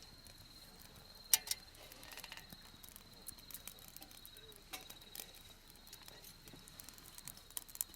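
An insect trilling steadily at a high pitch, with scattered sharp clicks and one louder snap about a second in.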